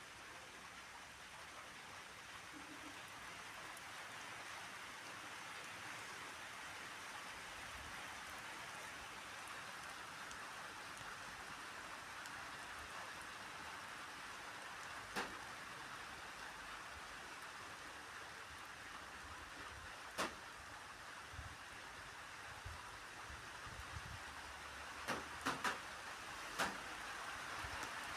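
Steady rain falling, with a few louder single drops smacking close by: one in the middle, another a few seconds later, and a small cluster near the end.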